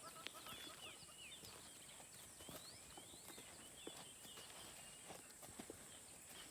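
Quiet bush ambience: small birds chirp again and again in short rising and falling calls over a steady high-pitched hum, with scattered soft footsteps.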